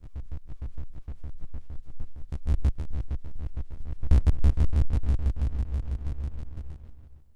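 SOMA Lyra-4 synthesizer playing a glitchy low drone that stutters in rapid pulses, about eight a second. It grows louder about halfway through and fades out near the end.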